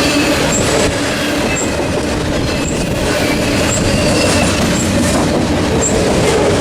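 Freight train cars rolling past, a steady rumble of steel wheels on rail with a light click about once a second and a faint wheel squeal.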